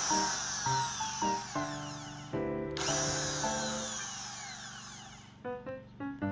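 An electric power-tool motor runs in two bursts, the first cut off abruptly after about two seconds and the second, after a short pause, dying away over a couple of seconds. Background music plays throughout.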